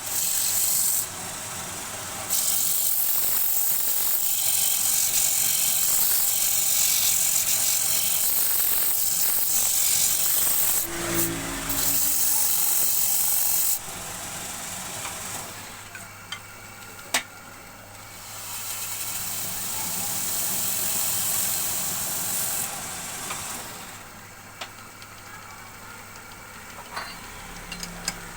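Sandpaper held against a wooden bowl spinning on a lathe, making a loud steady hiss that breaks off briefly twice and then stops about halfway through. After that the lathe motor's low hum remains, with a few light clicks and a softer stretch of sanding hiss.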